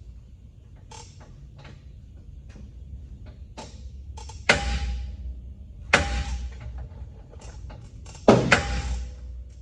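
Metal clanking: three loud sharp metal-on-metal strikes, each ringing briefly, among lighter clanks and taps, from work on heavy steel truck front-suspension parts.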